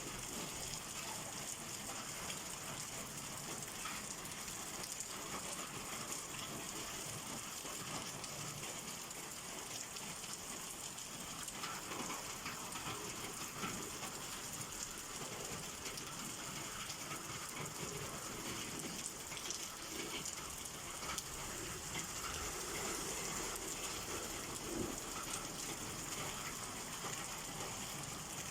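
Steady rain falling and pattering on surfaces, with a dense patter of small drop ticks.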